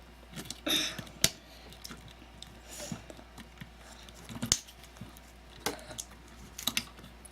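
Plastic Lego pieces being handled and fitted: scattered small clicks and rattles with some brief rustling. The sharpest click comes about four and a half seconds in.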